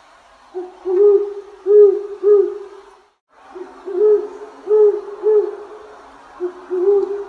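An owl hooting in repeated phrases of three or four low hoots, one phrase about every three seconds, with a brief gap between the first and second phrase.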